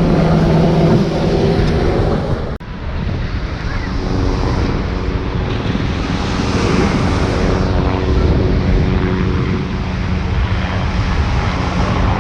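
Military helicopter flying, its turbine engines and rotor giving a steady whine and rush, with wind on the microphone; the sound cuts off abruptly about two and a half seconds in and picks up again.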